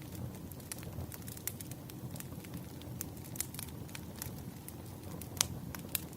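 Wood fire crackling: irregular sharp pops and snaps over a steady low rumble, the loudest pop about five and a half seconds in.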